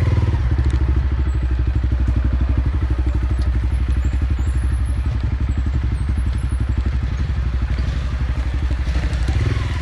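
Dirt bike engine running steadily at low revs, its exhaust pulsing evenly. The note shifts slightly near the end.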